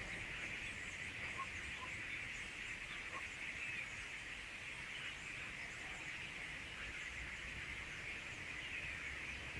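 Large flock of common starlings chattering together: a dense, steady chorus of many overlapping chirps and whistles.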